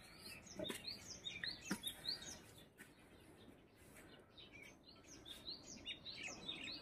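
Small birds chirping: many short, quick chirps and twitters, faint. Two footsteps of sandals on tiled steps can be heard in the first two seconds.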